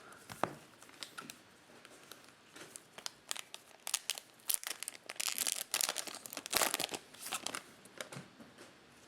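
Plastic wrapper of a Topps Chrome cello pack of baseball cards being torn open and crinkled in the hands, in irregular bursts of crackling.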